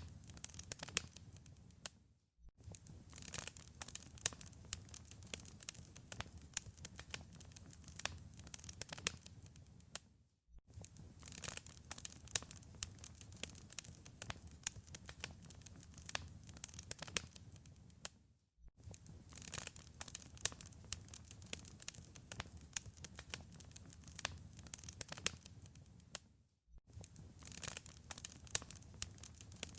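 Wood fire crackling in a fireplace: dense sharp pops and snaps over a low rumble. The sound fades out to silence for a moment and comes back about every eight seconds.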